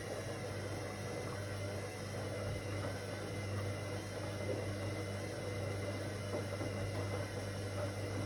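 Whirlpool AWOC 8283 washing machine running with a steady, even motor hum and whir.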